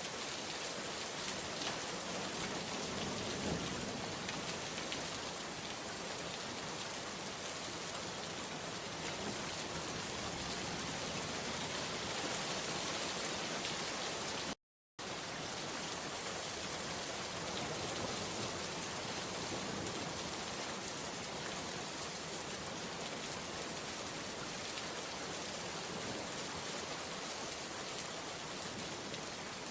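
Steady rain falling, an even hiss of many drops. About halfway it cuts out completely for a split second, then carries on unchanged.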